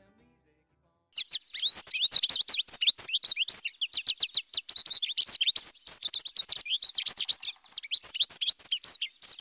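Many small birds chirping, a dense flock of rapid, high, overlapping chirps that starts about a second in.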